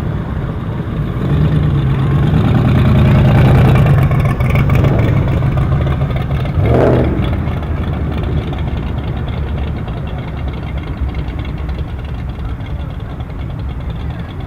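A car's engine and exhaust rumbling as it drives past, louder for the first few seconds and then easing off. There is a short sharp burst about seven seconds in, and traffic rumble continues after it.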